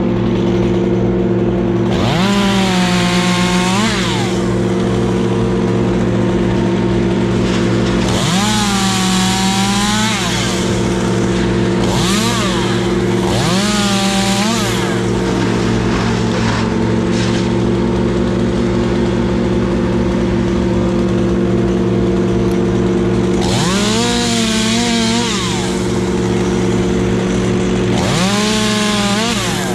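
Chainsaw revved to full speed in about six short bursts, each rising, holding high for a second or two and dropping back, over a steady engine drone.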